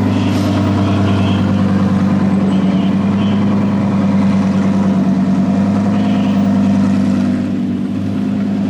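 Car engine running steadily at an unchanging low speed, a deep even drone with no revving.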